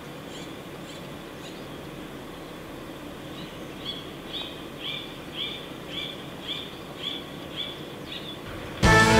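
A bird calling a short, repeated note about twice a second over steady outdoor background noise, the calls growing clearer from about the middle. Loud background music starts just before the end.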